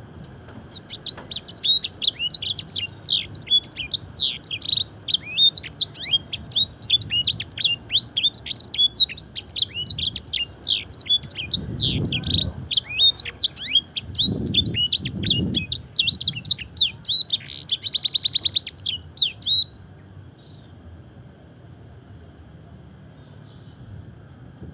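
A canary singing a long, fast song of rapid falling notes, with phrases learned from the blackthroat. It closes with a quick trill about 18 seconds in, then stops.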